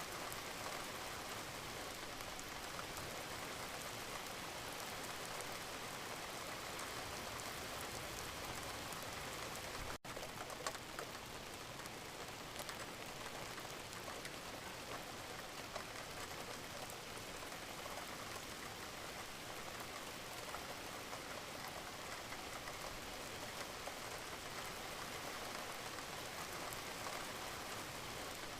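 Wood fire in a fireplace, a steady crackling hiss with small pops, briefly cutting out about a third of the way through.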